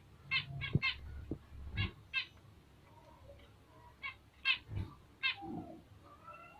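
Bengalese finches calling: a string of short, high, separate chirps, with a few soft knocks among them.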